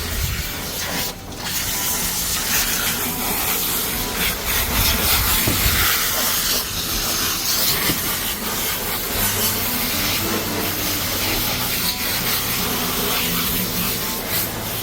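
Water spraying steadily from a shower head or hose onto a dog being bathed, a continuous even hiss.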